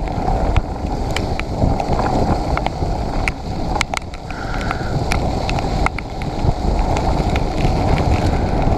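Wind buffeting the camera microphone on a mountain bike ride through heavy rain, over a steady low rumble of tyres on the wet trail. Frequent sharp ticks and knocks come throughout.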